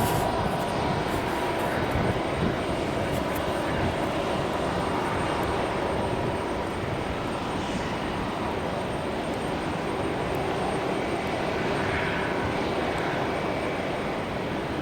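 Jet airliner engines, a steady drone with a faint whine early on.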